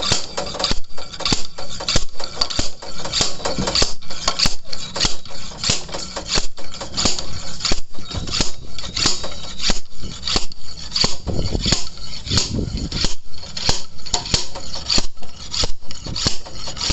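Repeated metal-on-metal hammer strikes, about two a second, on an injector puller, knocking out a seized diesel injector from the Hyundai i20 diesel engine's cylinder head.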